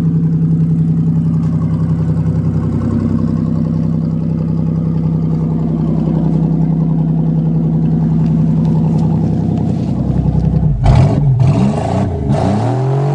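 Car engine idling steadily; about eleven seconds in it gets louder and is revved up and down several times.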